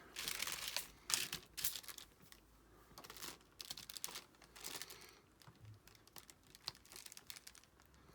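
Plastic crinkling and rustling in irregular bursts as it is handled, loudest in the first two seconds, then quieter scattered crinkles.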